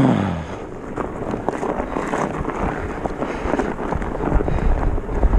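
Wind buffeting the microphone in a steady rushing noise, with a low rumble that grows stronger about four seconds in.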